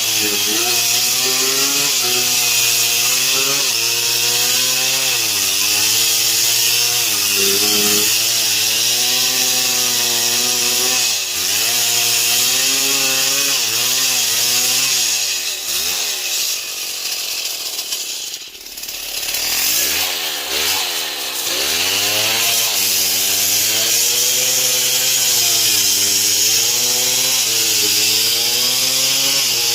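Stihl MS 070 two-stroke chainsaw cutting wood, its engine pitch wavering up and down under the load of the cut. About halfway through the revs sag and swoop several times, then climb back to steady cutting speed.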